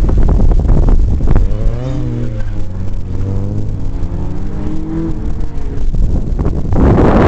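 Autocross car's engine, its pitch rising and falling through the middle, with heavy wind noise on the microphone at the start and again from near the end.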